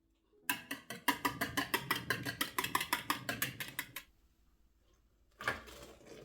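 A utensil beating rapidly in a bowl, about eight quick clinking strokes a second for some three and a half seconds, as when whisking batter. A short scraping sound follows near the end.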